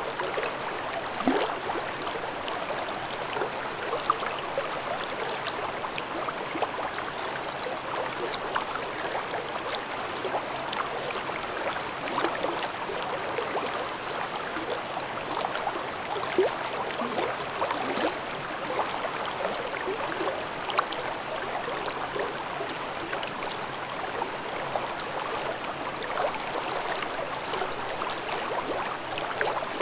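A shallow mountain stream babbling over rocks: a steady rush of water with constant small gurgles and splashes.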